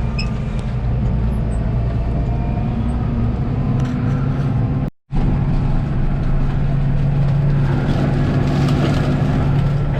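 Diesel engine of a Challenger CVT tractor running steadily, heard from inside the cab, a low, even drone. The sound cuts out for a split second about halfway through, and the low hum is stronger after the cut.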